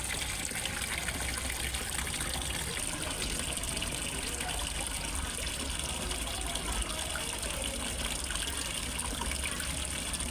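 Water falling and splashing steadily into a fish pond from a small waterfall, an even, unbroken rush.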